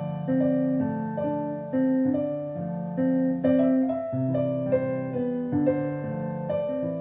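Piano-toned keyboard playing slow, overlapping chords, each struck and left to ring, changing every half-second to a second in a free, unmetred improvisation.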